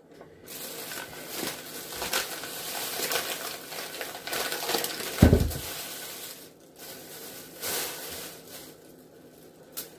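Rustling and clattering of items being handled and cleared from a kitchen counter, with one loud low thump a little past halfway.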